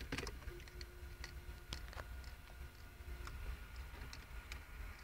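Faint scattered clicks and ticks over a low steady hum.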